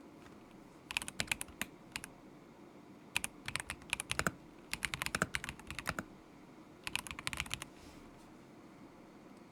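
Typing on a KZZI K75 Pro mechanical keyboard with stock Moment linear switches: four short runs of keystrokes separated by brief pauses.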